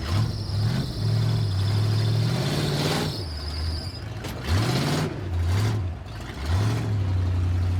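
Demolition derby car engines revving hard, their pitch sweeping up and falling back several times, with a few sharp knocks around the middle.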